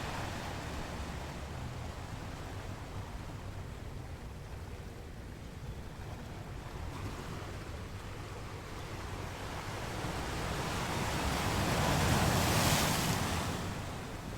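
Ocean surf: a steady wash of waves, with one wave building up and breaking near the end before falling away.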